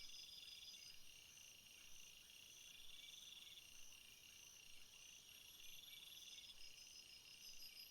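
Faint chorus of crickets: several high, finely pulsed trills at different fixed pitches overlapping, each starting and stopping every few seconds.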